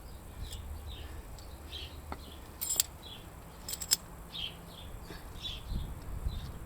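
A small bird chirping over and over, about two chirps a second, over a low outdoor rumble. Two pairs of sharp clicks come about a third and halfway in.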